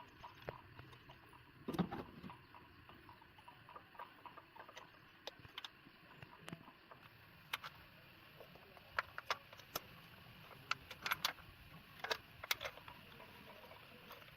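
Irregular light clicks and clinks of hand tools and small metal parts being handled. A few louder clusters of them come past the middle and near the end.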